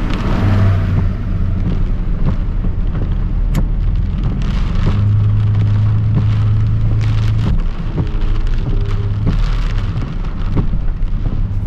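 Rain hitting a pickup truck's body and windshield in a tropical storm, heard from inside the cab over the steady low drone of the truck's engine and tyres.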